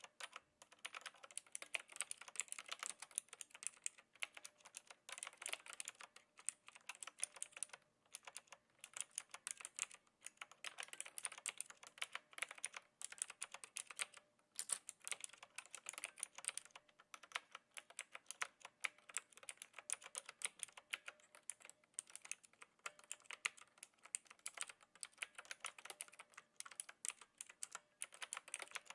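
Knewkey Rymek typewriter-style mechanical keyboard with clicky blue switches being typed on with a gentle touch: fast, continuous runs of key clicks broken by short pauses every few seconds.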